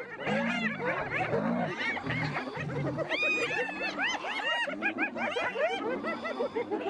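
Several spotted hyenas giggling, many short rising-and-falling calls overlapping in a dense chatter.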